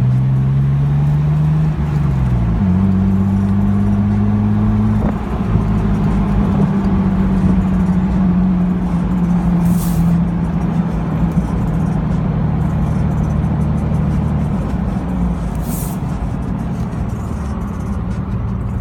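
Jeep Wrangler TJ's 4.0-litre inline-six exhaust running through a Magnaflow glasspack muffler while driving, a deep steady drone. Its pitch rises, drops about two seconds in and picks back up, then holds and slowly sinks.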